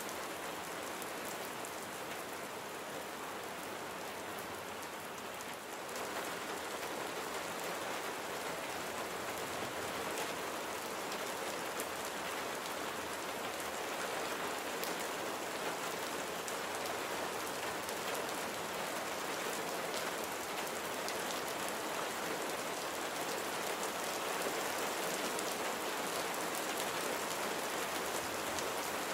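Steady rain falling, an even hiss with scattered drop impacts on surfaces; it gets a little louder about six seconds in.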